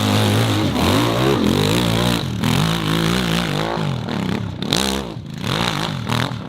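Off-road motorcycle engine revving, its pitch swinging up and down again and again as the throttle is worked.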